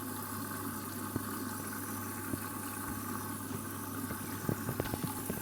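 Candy Grand'O Vita washing machine filling with water after its first spin: a steady rush of water coming in, with a low steady hum under it and a few faint ticks near the end.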